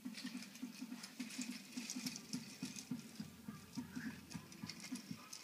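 Toy train running along its track with a rapid, steady clicking clatter.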